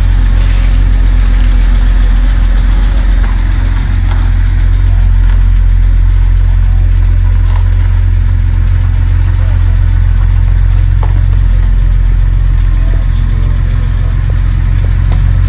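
BMW E90 330i's N52 inline-six engine running steadily at an even, low hum, with no revving.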